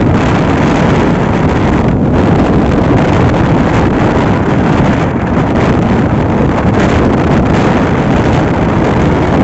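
Loud wind rushing over the microphone, mixed with the steady running noise of a moving passenger train.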